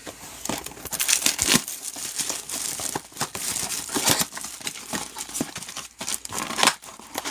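Foil trading-card pack wrappers crinkling and tearing as packs are ripped open and handled, an irregular run of rustles and crackles.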